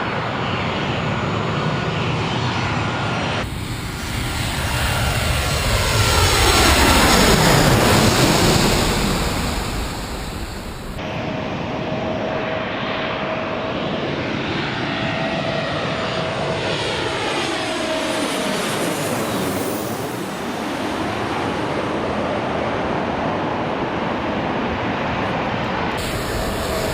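Airliners flying low overhead on their way to or from the runway, one after another, the engine noise swelling loudest as each passes, with a phasing, swooshing sweep in pitch. The sound changes abruptly about three and a half seconds in, about eleven seconds in, and near the end, as one aircraft gives way to the next.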